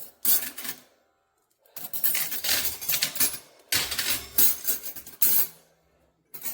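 Metal oven accessories, pans and racks, clinking and clattering as they are handled, in three bursts of activity: a short one at the start, then two longer stretches through the middle.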